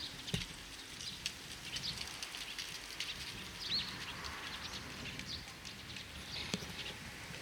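Small birds chirping, with short scattered calls and one clear hooked call about midway, over steady outdoor background noise. There are a couple of faint low knocks.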